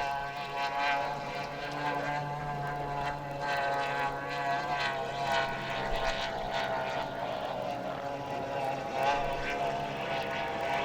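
Racing hydroplane engines running at speed, a steady droning note whose pitch wavers slightly.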